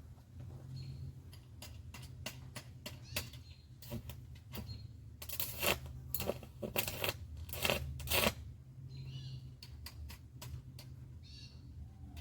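Stick-welding arc on aluminum with a 3/32 aluminum electrode run electrode-positive (DCEP): scattered sharp clicks as the rod is scratched to strike, then a few loud crackling bursts of arc over about three seconds near the middle, over a steady low hum from the welder.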